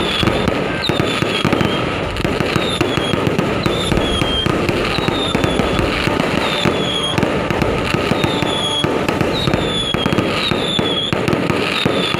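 A dense fireworks barrage: continuous crackling and popping full of sharp cracks, with short whistles recurring every half second or so.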